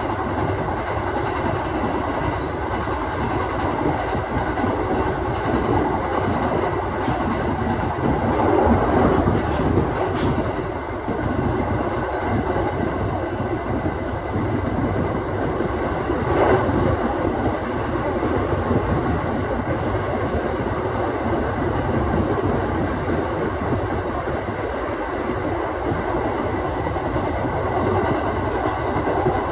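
Aoimori Railway 701 series electric train running along the line, heard from inside the front of the train: a steady rumble of wheels on rail with a few louder clacks.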